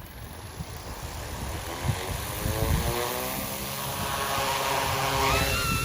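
OMPHOBBY M2 electric RC helicopter spooling up: the motor and rotor whine rises in pitch, then holds a steady high screaming whine near the end. The screaming comes from a 2-inch EMAX tri-blade tail rotor that is too small for the helicopter.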